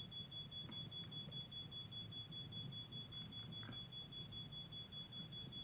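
Faint, high-pitched electronic tone pulsing rapidly and without a break, over a low hum.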